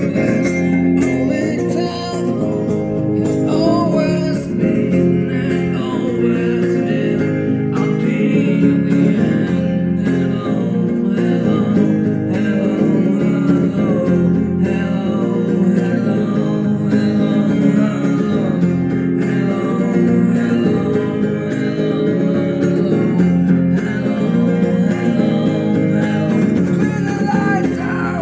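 Electric guitar played live, a continuous instrumental passage of plucked and strummed notes.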